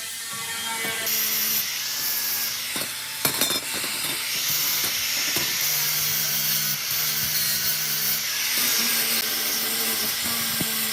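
A power tool running, a steady high hiss over a low hum, with a sharp knock about three seconds in.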